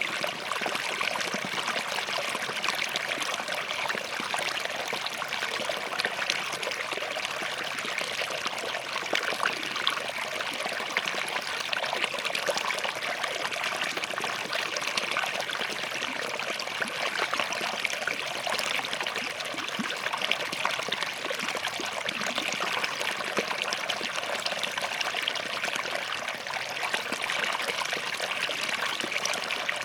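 Forest stream running steadily over and between rocks, a continuous trickling and gurgling flow.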